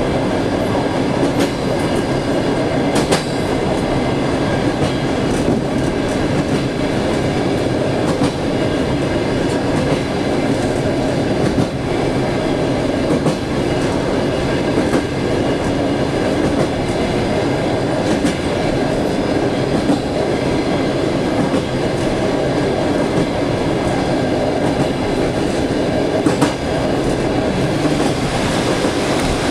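Railway passenger car running along the track, heard from inside its rear vestibule: a steady rumble of wheels on rail, with occasional sharp knocks several seconds apart.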